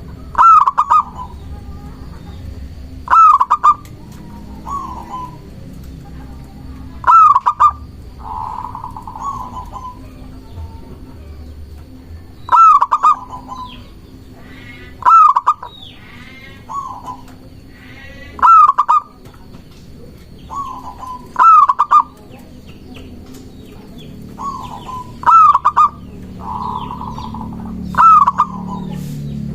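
Zebra dove (perkutut) singing close up: loud cooing phrases a few seconds apart, each followed by softer notes. Other birds chirp quickly in the background about halfway through.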